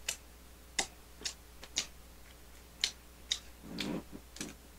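Mouth sounds of chewing a bite of mini burger: irregular wet clicks and smacks, about eight in all, with a softer, low muffled sound a little before the end.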